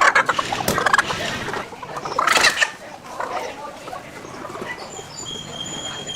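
Chickens clucking and calling, loudest in the first second and in a short burst about two seconds in.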